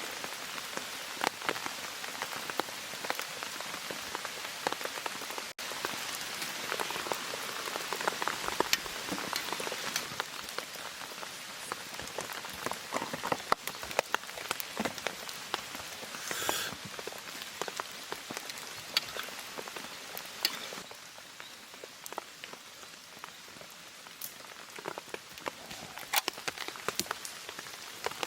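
Rain falling on a tarp: a steady hiss of rain with many sharp, separate drop ticks. It turns a little quieter for the last several seconds.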